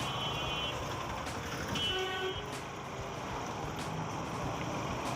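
Jammed road traffic with a steady rumble of engines and road noise. Short high-pitched horn toots from vehicles close by sound near the start and again about two seconds in.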